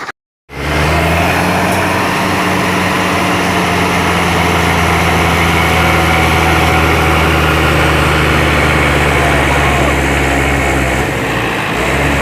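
Truck engine running steadily at a constant speed, starting abruptly just after a brief dropout; it dips for a moment near the end.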